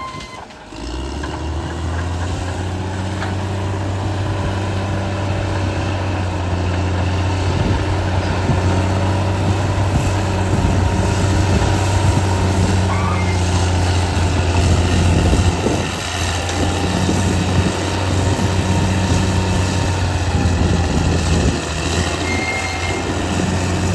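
Caterpillar D6R XL bulldozer's diesel engine running steadily and loudly, with a short dip about half a second in.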